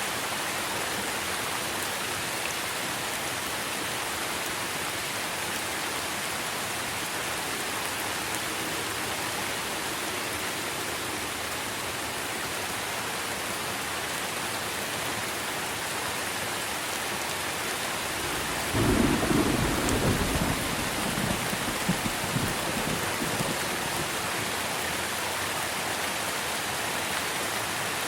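Steady rain falling on trees, with a single clap of thunder about two-thirds of the way in that rumbles on for a few seconds and dies away.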